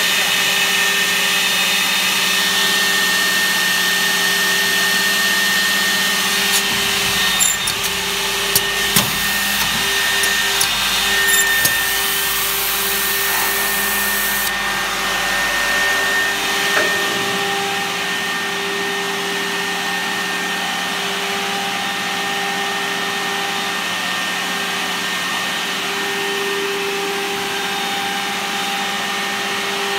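SCM Olimpic K201 Plus edge-banding machine running with a steady motor hum and hiss. A run of sharp clicks and knocks comes between about six and twelve seconds in; then the high hiss cuts off suddenly, and a few seconds later the low rumble drops away while the hum goes on.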